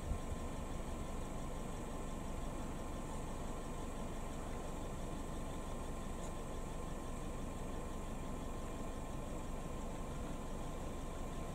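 Idling car engine, a steady low hum that does not change, with a faint steady high whine over it.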